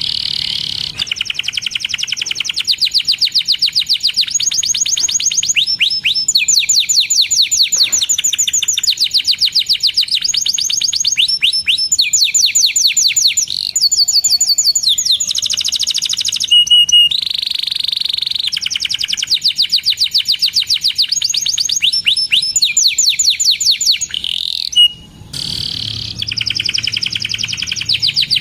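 Domestic canary singing a long, unbroken song of fast high-pitched trills, each phrase a rapid run of repeated chirping notes, with a brief pause near the end.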